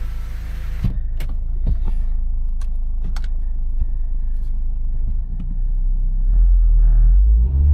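A 2012 Ford Focus's four-cylinder petrol engine idling steadily, with a few sharp clicks about one to three seconds in. Near the end the engine note swells and rises as the car pulls away.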